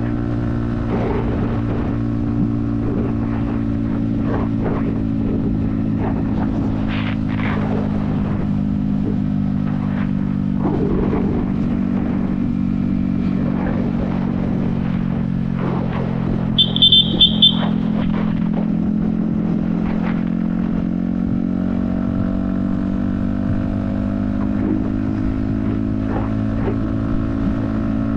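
Yamaha XSR155's 155 cc single-cylinder engine running steadily at cruising speed, heard from the rider's helmet. Its pitch dips slightly in the middle and rises again near the end. A short run of rapid high beeps sounds about two-thirds of the way through.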